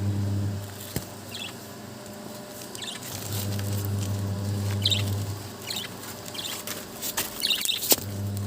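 Small pet cage birds giving short high chirps several times, with a few sharp clicks. A low steady hum starts and stops twice.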